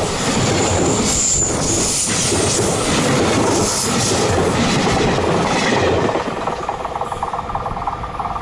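Freight train wagons running past on a curve, a loud steady rumble of wheels on rail with a brief high wheel squeal about a second in. The noise eases a little after six seconds and then cuts off suddenly.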